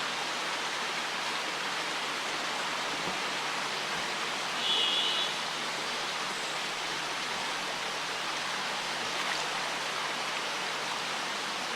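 River water rushing steadily, with a brief high-pitched note about five seconds in.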